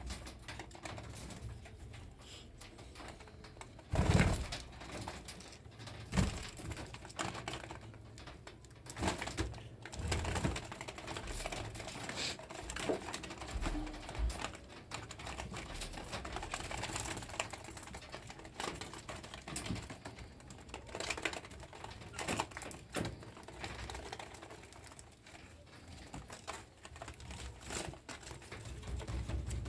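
Pet cockatiel making a few soft chirps among irregular clicking and tapping sounds.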